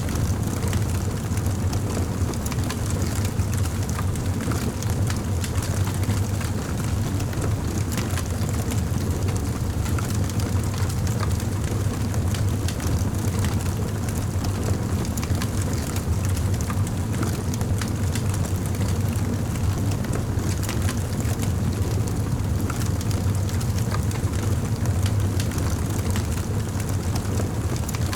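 Campfire burning, with a steady low rumble and frequent small crackles and pops throughout.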